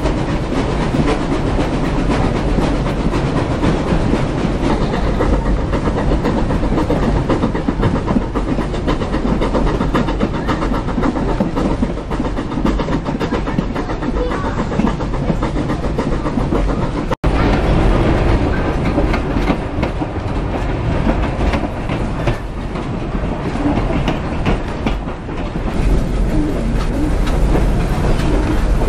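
Steady rumble and clickety-clack of a heritage train's carriage wheels rolling over the rails, heard from aboard the moving carriage. The sound cuts out for an instant partway through, then carries on.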